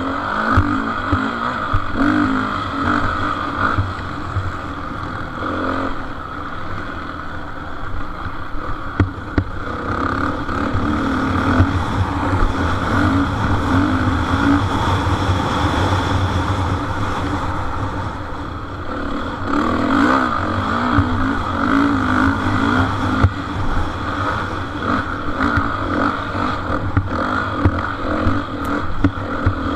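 Motocross motorcycle engines revving and running hard as bikes race around the track, the sound swelling and fading as they pass.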